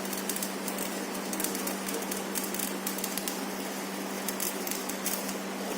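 Stick (manual arc) welding with a MAGMAWELD ESR-11 rutile-cellulose electrode, 3.25 mm, at about 60 A: the arc crackles steadily with fine sputtering clicks over a constant hum.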